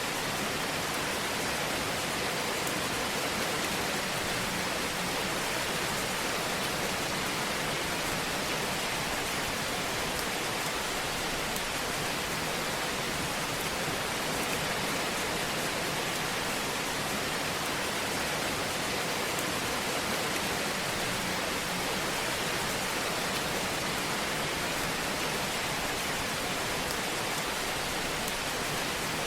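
Fire burning in a fireplace: a steady hiss with a soft, scattered crackle.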